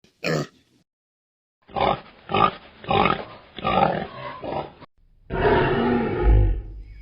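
An animal giving a short cry, then a run of five loud grunting calls about half a second apart, then a longer rough roar with a deep thump near the end.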